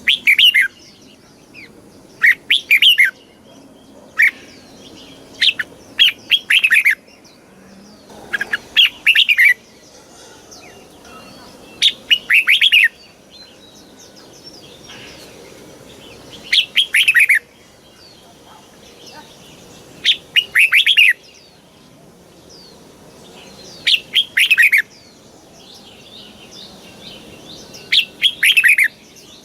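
Red-whiskered bulbul singing: short, loud, bubbling phrases of quick whistled notes, repeated every few seconds, each about a second long.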